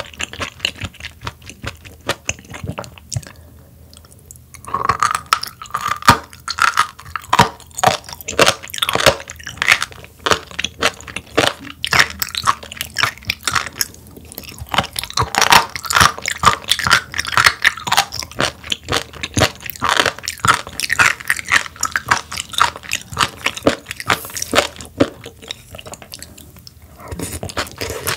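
Close-miked chewing of raw sturgeon and its crunchy seasoned salad: dense, wet crunches and clicks in quick succession, with a short lull about three to four seconds in.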